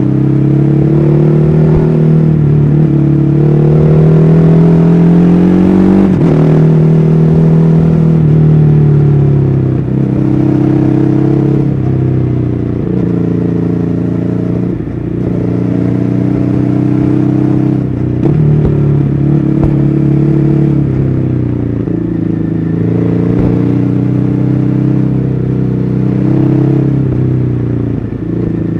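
2014 Ducati Hyperstrada's 821 cc V-twin engine under way, repeatedly pulling up in pitch under throttle and dropping sharply every few seconds as it shifts or eases off.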